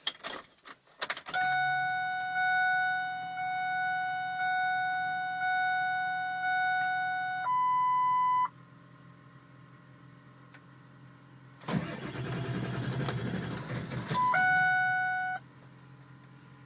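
Truck's dashboard warning chime, a steady tone pulsing about once a second for some six seconds and then briefly changing to a higher beep. Later the engine cranks for about two and a half seconds without catching, a truck that won't start, and the chime sounds again for a second.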